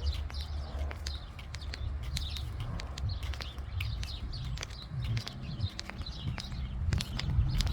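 Small birds chirping again and again over a steady low rumble, with scattered sharp clicks.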